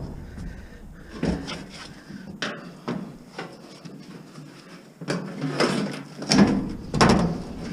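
Irregular knocks, clunks and scraping of metal appliance scrap being handled: a few scattered knocks early, then a denser, louder run of clattering from about five seconds in.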